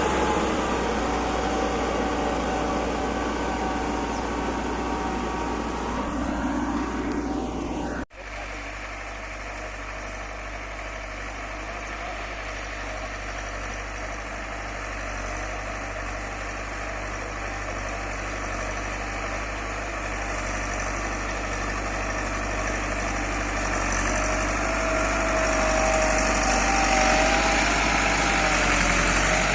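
Tractor diesel engine running steadily, with a low hum throughout. The sound cuts out for an instant about eight seconds in, then carries on.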